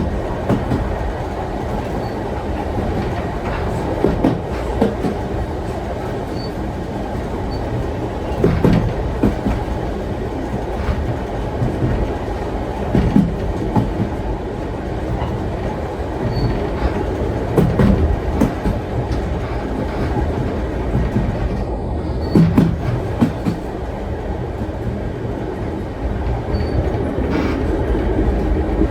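Vintage steam-hauled train rolling along the track: a steady low rumble from the wheels, with a cluster of clacks over rail joints every four or five seconds.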